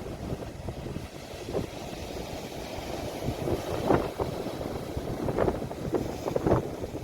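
Sea waves washing on the shore with wind buffeting a phone microphone, a constant low rumble; a few brief louder surges in the second half.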